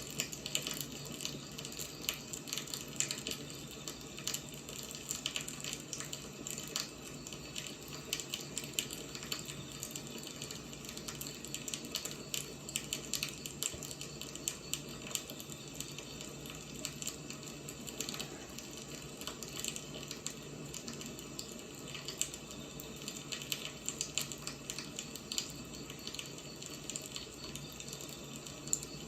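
Wood fire burning: a steady hiss with frequent small crackles and pops.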